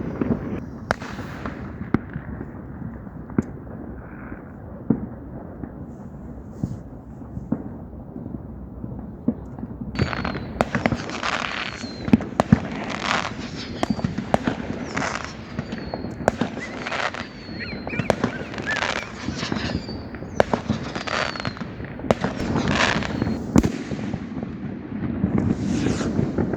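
Fireworks going off: scattered bangs over a low rumble, then from about ten seconds in a rapid barrage of loud bangs and crackling with short falling whistles.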